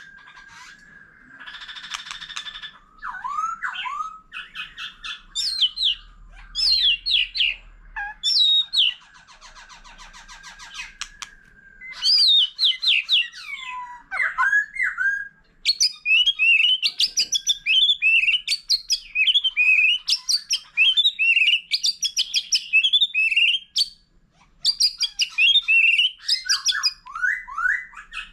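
White-rumped shama singing a long, varied song of loud whistled phrases with fast rising and falling notes. Harsh buzzy rattles come about two seconds in and again around nine seconds. A dense run of rapid notes follows from about the middle, with a brief pause near the end before the song picks up again.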